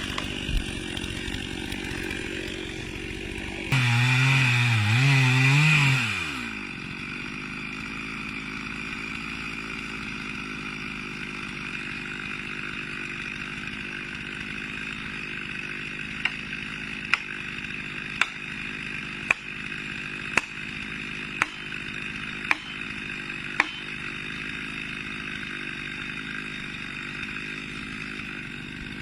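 Chainsaw engine cutting: about four seconds in it runs loud with its pitch wavering up and down under load for a couple of seconds, then falls away to a lower steady sound. Later comes a run of about eight sharp ticks about a second apart.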